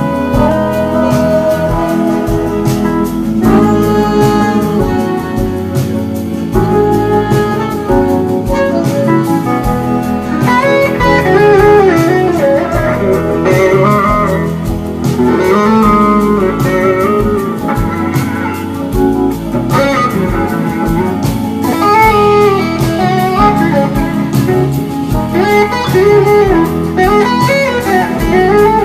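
Live band playing an instrumental passage of a slow blues song, with an electric guitar soloing in notes that slide and bend over the band's accompaniment.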